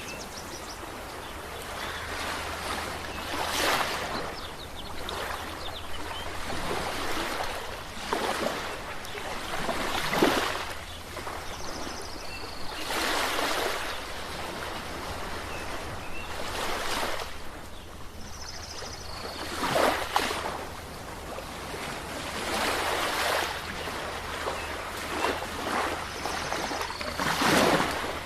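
Sea waves breaking and washing ashore: a steady hiss of surf that swells with a new wave every three to four seconds.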